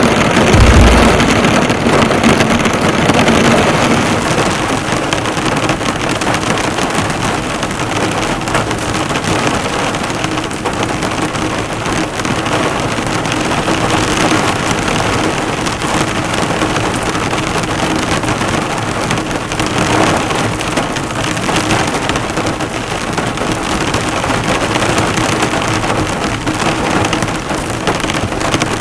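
Heavy rain falling on a car, a dense steady patter of drops striking the hood and bodywork. A short, deep thump comes about a second in.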